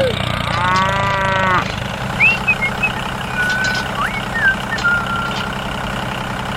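Mini tractor's small engine running steadily, with one drawn-out cow-like moo about half a second in, lasting about a second. After it come a few short high chirps.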